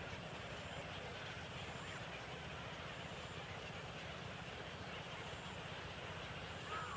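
A steady low rumble of background noise, with a short bird chirp near the end.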